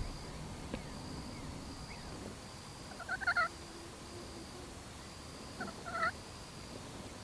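Wild turkey tom gobbling twice, each gobble a short rattling call about half a second long, about three seconds apart.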